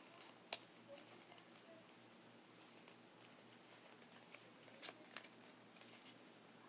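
Near silence with the faint handling of Pokémon trading cards: a sharp click about half a second in, a couple of light taps near the five-second mark and a soft rustle shortly after.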